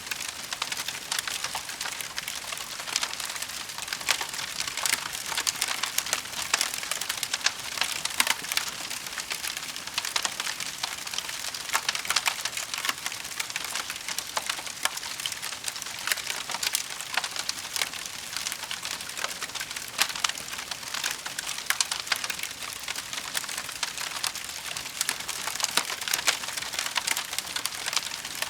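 Wood fire burning in a fireplace, crackling steadily with dense, irregular small pops and snaps over a soft hiss.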